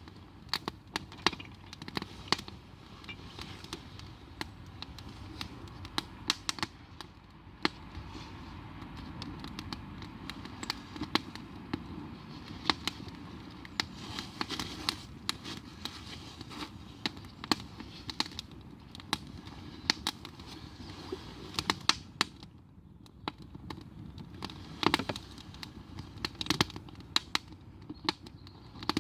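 Wood campfire crackling: irregular sharp pops and snaps over a steady low background noise.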